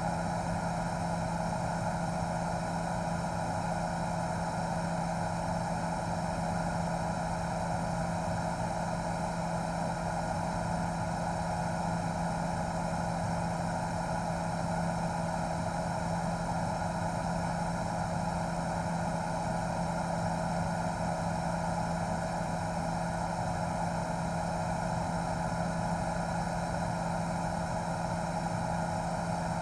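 News helicopter's engine and rotor noise picked up on board: a steady drone with a constant low hum and a higher whine, unchanging throughout.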